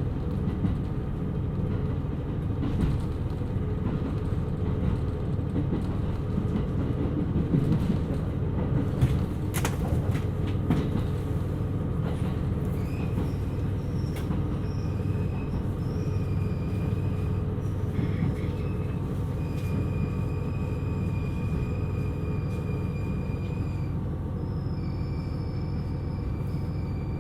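KiHa 127 series diesel railcar running along the line, a steady rumble of engine and wheels on the rails. About halfway through, a thin high squeal starts and comes and goes.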